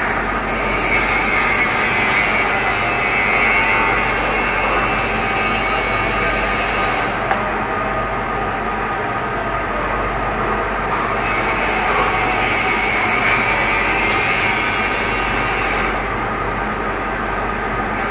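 Steady, loud machinery noise in a ship's engine room, with a higher hissing layer that drops out twice and comes back.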